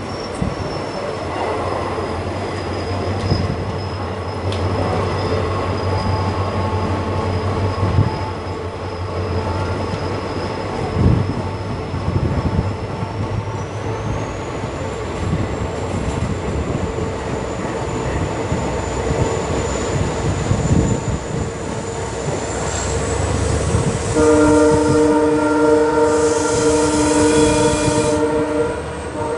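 Passenger train running along the track, heard from the side of the moving coach: a steady rumble with wheel clatter and wind, and a thin high whine that steps up in pitch about halfway through. Near the end a train horn sounds in one long steady blast of about five seconds.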